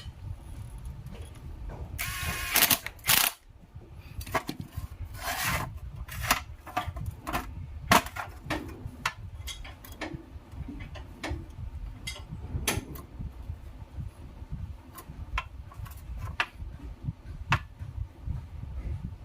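Tools and metal parts of a starter motor being handled during repair: scattered clicks and clinks, with a louder scraping burst about two to three seconds in.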